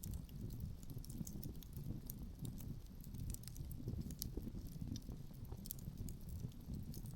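Outdoor wood fire crackling, with many small sharp pops scattered irregularly over a steady low rumble of wind.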